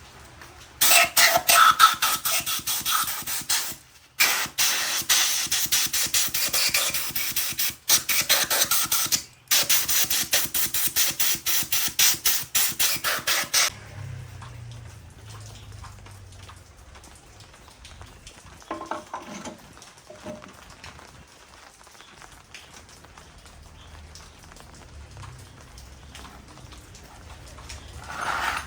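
Loud pressurised spray hissing in rapid pulses, breaking off briefly twice, then stopping about fourteen seconds in, leaving a faint low hum.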